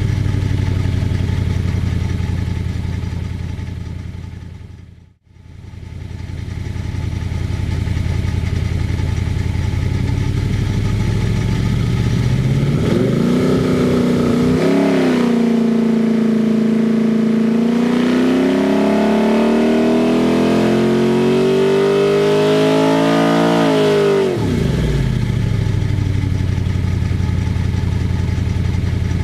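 Ford 289 small-block V8 running on an engine dynamometer: it falls back to idle, fades out briefly and back in about five seconds in, then revs up and climbs steadily in a load pull for several seconds before the throttle closes and it drops suddenly back to idle near the end.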